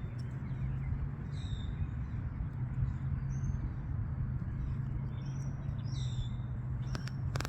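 Songbirds chirping in short repeated calls, with a steady low hum underneath and a sharp click near the end.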